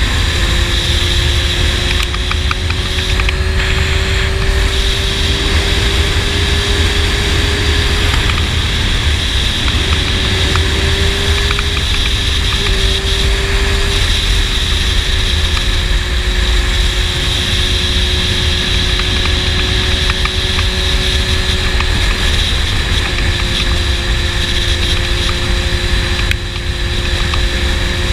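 Honda CBR600 sport bike's inline-four engine with a slip-on exhaust, running at a steady cruise. Its pitch drifts up slightly and eases back about ten to fourteen seconds in. Wind rumbles over the helmet-mounted microphone underneath.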